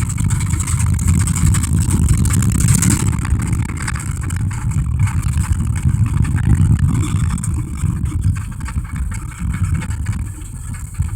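A 1987 Dodge Ram D150 pickup's carbureted engine running as the truck is driven: a steady low rumble that eases off somewhat near the end.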